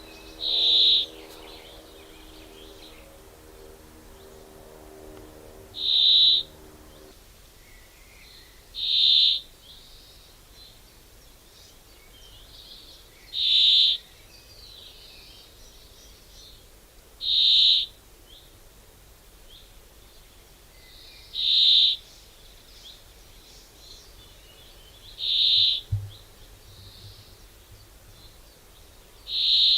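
A bird giving one short, loud, high call over and over, about every four seconds, eight times in all, with fainter chirping behind it.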